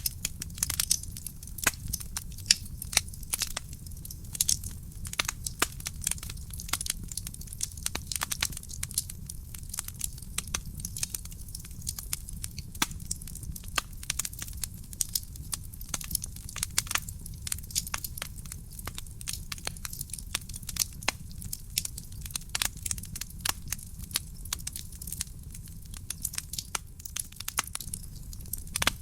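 Wood fire burning in a fireplace: a dense stream of irregular sharp crackles and pops over a low, steady rumble of the flames.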